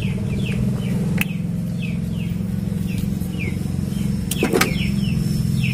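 A car engine idling steadily, with small birds chirping in short falling calls, two or three a second. Twice there is a sharp click as the plastic in-line fuse holder is handled.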